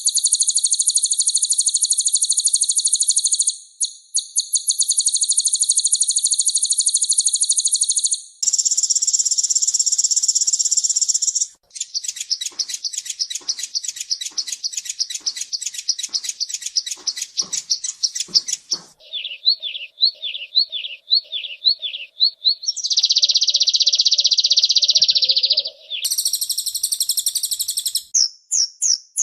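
Kolibri ninja sunbird song: a string of high-pitched rapid trills and fast repeated chattering notes. The phrase type changes abruptly every few seconds, with brief gaps between them.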